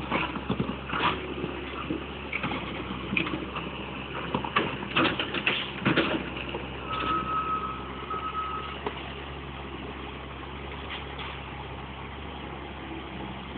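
A bulldozer's diesel engine runs while the machine rips apart a flood-damaged mobile home. Repeated cracks, crunches and knocks of breaking material come over the first nine seconds, with a brief high whine about seven seconds in. After that only the engine runs steadily.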